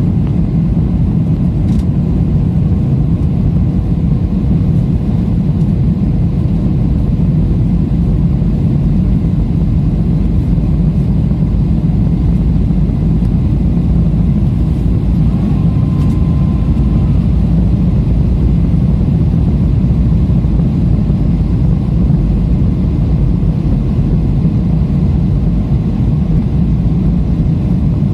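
Steady low rumble of engine and airflow noise inside a jet airliner's cabin during the approach for landing.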